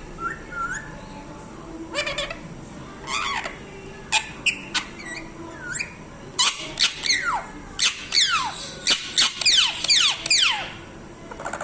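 Parrot calling: scattered squeaky calls at first, then a quick run of sharp chirps and falling whistles in the second half.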